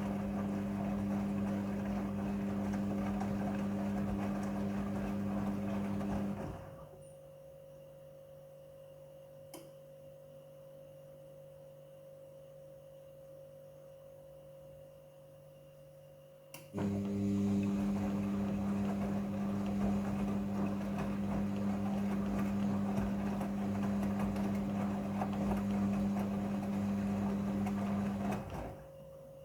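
Midea front-loading washing machine's drum motor running with a steady hum. It stops about six seconds in, a single click sounds during the pause, and it starts again for about twelve seconds before stopping near the end: the drum turning in bursts with pauses between them.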